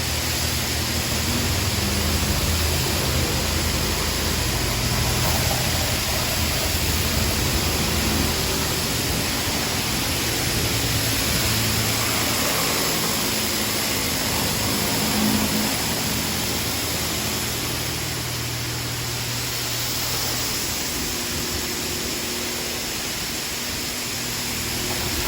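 Laserwash touchless automatic car wash spraying high-pressure water over a car: a loud, steady hiss of spray with a low, steady hum underneath.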